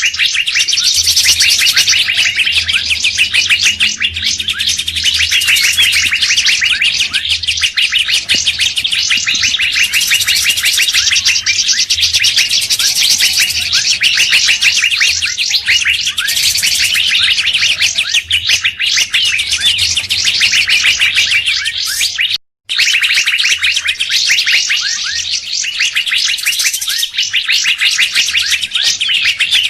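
Bird-lure recording of several songbirds calling at once: a dense, unbroken stream of rapid chirps and whistles, with a brief cut to silence about three-quarters of the way through.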